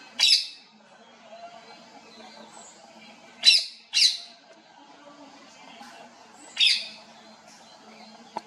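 Parrots squawking: four short, harsh calls, a pair of them close together in the middle, over faint background twittering.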